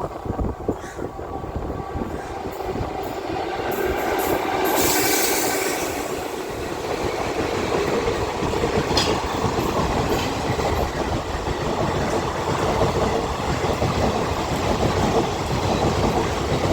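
Express passenger train running through the station, its coaches' wheels clattering over the rail joints, growing louder over the first few seconds.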